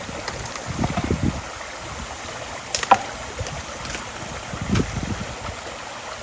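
Creek water running steadily, with wind gusts rumbling on the microphone, and one sharp knock about three seconds in.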